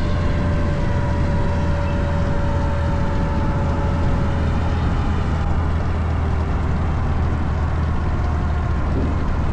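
A vehicle engine running steadily, a continuous low drone with a few faint steady tones above it.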